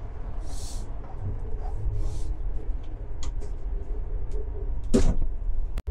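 Steady low rumble of a Sapsan high-speed train running, heard from inside the carriage, with light clicks and rattles and one sharper knock about five seconds in; the sound cuts off abruptly just before the end.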